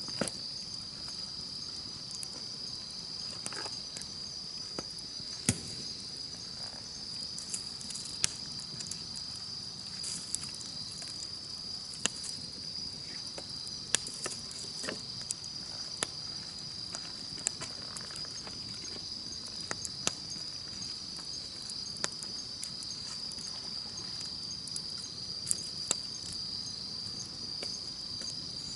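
Campfire crackling, with sharp scattered pops of burning wood, over a steady high-pitched chorus of insects.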